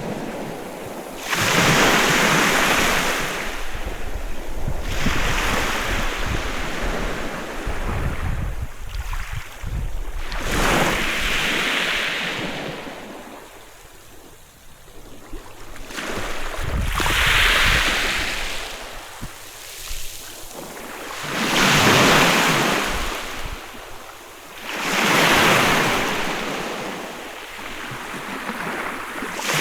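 Sea waves breaking and washing up on a beach, a new wave surging in and draining away every three to six seconds, about seven in all.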